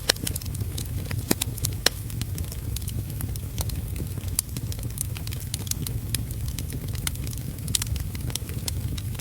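Wood fire crackling in a fireplace, with frequent sharp pops, over a steady low rumble of heavy rain.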